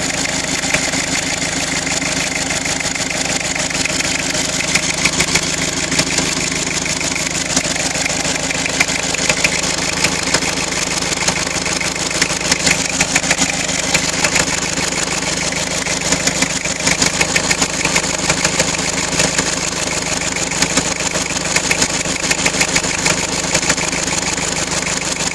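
Car engine idling steadily at full running temperature after about half an hour's run, with a fast light ticking through it; it sounds smooth.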